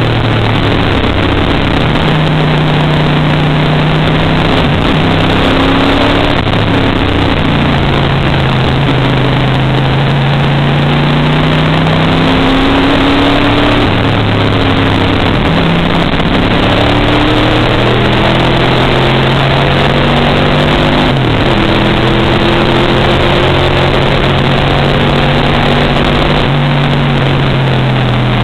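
Race car's engine running hard on track, heard from inside the car over a loud rush of noise; its pitch climbs steadily and drops back several times as the driver accelerates, shifts and lifts.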